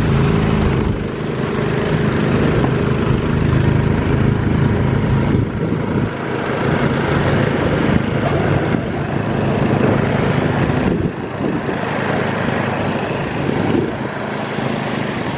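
Snowblower's small engine running continuously. Its tone is clearest in the first few seconds, and the level dips briefly a few times as the load changes.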